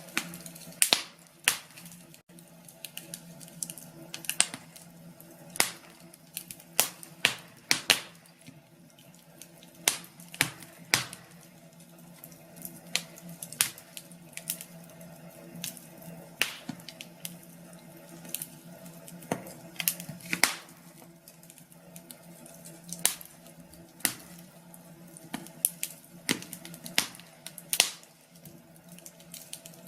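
Wood fire crackling, with irregular sharp pops and snaps, some much louder than others, over a faint steady hum.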